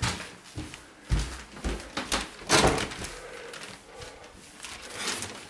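Wire clothes hangers and plastic bags being handled: a run of knocks and clatters with rustling, the loudest about two and a half seconds in.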